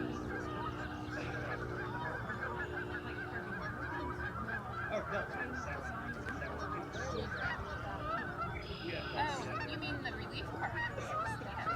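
A large flock of wild geese honking, a dense chorus of many overlapping calls. A steady low hum sits underneath near the start and again toward the end.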